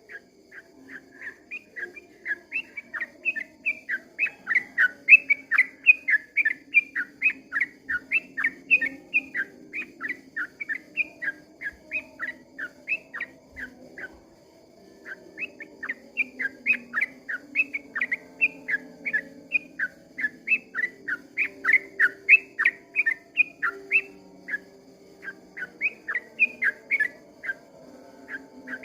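Yellow-vented bulbul (trucukan) singing a long rolling run of quick whistled notes, about four a second, in two long bouts with a short pause about halfway through.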